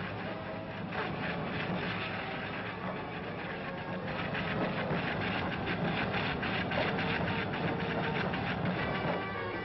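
Roar of a volcanic eruption: lava fountains and steam explosions giving a steady low rumble overlaid with dense crackling, growing louder about four seconds in.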